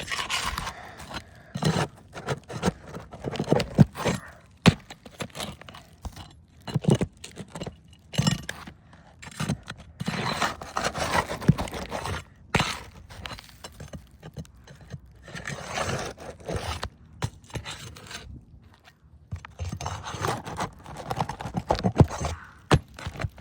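Roofing nails being pried out from under asphalt shingles: a metal tool scraping and clinking against the shingles and nails, with sharp knocks and crackles coming in irregular bouts.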